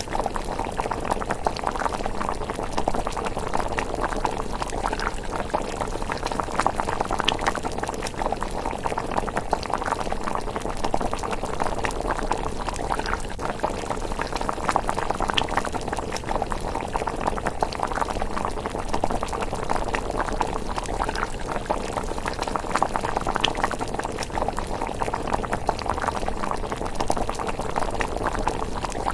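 Rice porridge bubbling steadily in a pot at a simmer, a dense continuous burble with scattered small pops and ticks.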